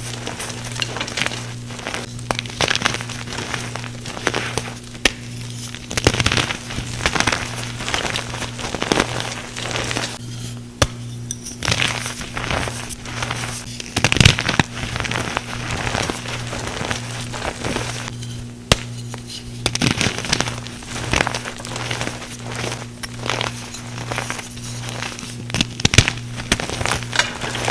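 Gym chalk and reformed calcium carbonate blocks being crushed and crumbled: a dense, irregular run of crunchy crackles and snaps, the loudest crunch about halfway through.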